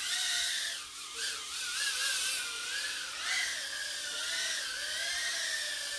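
Mobula 6 tiny whoop's four 19000kv brushless motors whining as it flies, the high-pitched whine wavering up and down in pitch with the throttle.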